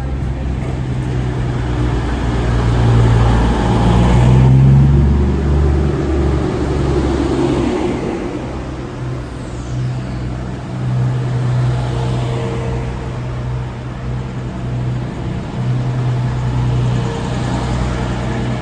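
Diesel train engine running at a platform, a loud steady hum whose note swells and rises about four seconds in, then settles back to a steady drone.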